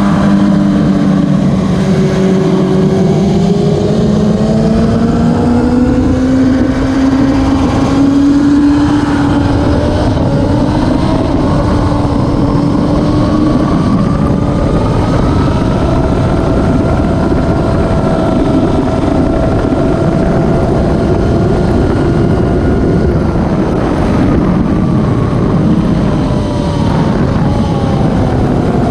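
Classic superbike racing motorcycle engines running hard, several engine notes overlapping and slowly rising and falling in pitch.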